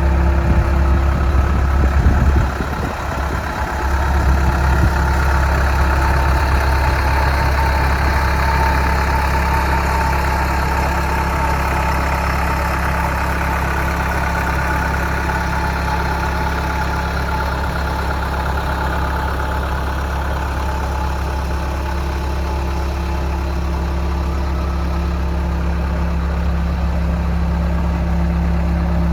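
CASE 445 skid steer's diesel engine running steadily at idle.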